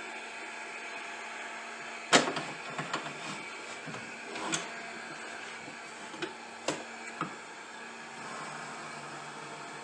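A few sharp clicks and knocks, the loudest about two seconds in and the rest scattered over the next five seconds, as small hard objects are handled and set down on a workbench, over a steady machine hum.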